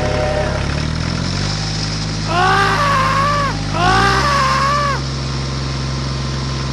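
Toy-vehicle engine sound humming steadily, its pitch stepping up about a second in. Twice, around two and four seconds in, a wavering wail rises and falls over it.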